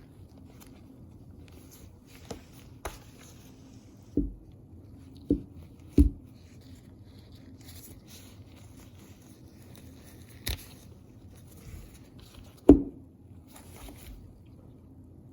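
Hands handling objects and setting them down on a hard surface: a few light clicks, then a series of dull thuds and a sharp click. The loudest thud comes near the end.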